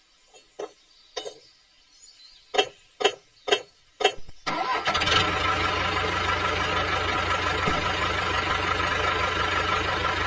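Small engine being started: about six short cranking strokes, then it catches about four and a half seconds in and runs steadily.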